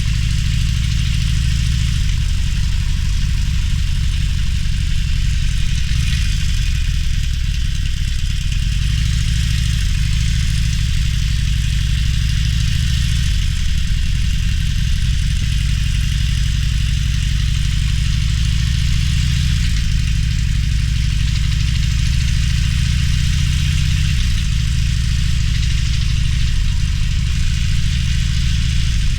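Harley-Davidson Roadster's air-cooled V-twin running at low revs, its pitch shifting a little now and then, over a steady hiss of wind and road noise.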